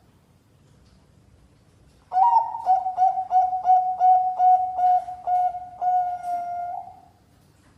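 Bangkok-type perkutut (zebra dove) cooing. After about two seconds of quiet comes a quick run of short coos on one pitch, about three a second, closing with a longer held note.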